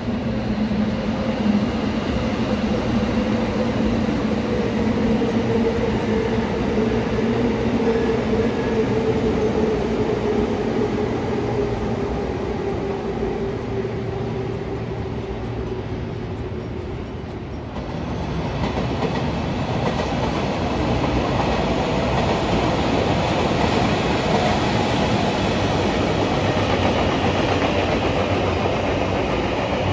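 A train running past: a whine that sinks slowly in pitch over the first fifteen seconds or so, then, after a short lull, a louder, steadier rush of running noise.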